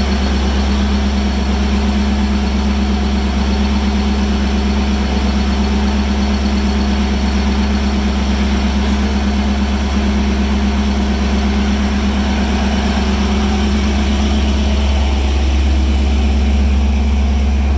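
Ford 302 V8 from a Mustang GT, fitted with 351 Windsor heads, idling steadily in a '32 Ford roadster highboy.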